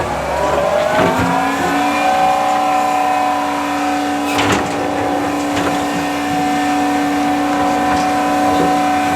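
Heavy construction machine's diesel engine revving up over the first second or two, then holding a steady high pitch under load. A sharp metallic knock sounds about four seconds in, with a few lighter clanks around it.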